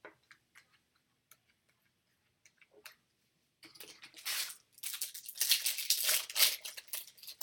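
Trading card packs being handled and opened: a few faint clicks, then, from about halfway, a run of crinkling and tearing wrapper noise.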